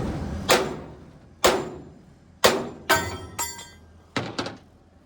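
Hammer striking steel: about seven separate blows at an uneven pace, some leaving a short metallic ring, as a pin that has been cut off with a cut-off wheel is beaten down.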